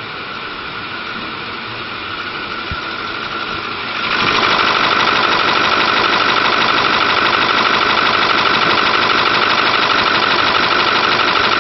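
The 6.4 liter Power Stroke turbo-diesel V8 of a 2008 Ford F-250 Super Duty idling steadily, growing louder about four seconds in and then holding steady.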